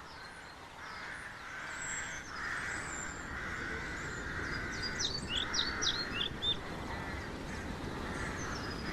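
Wild birds calling: a steady background chorus, with a run of quick, high chirps a little past halfway.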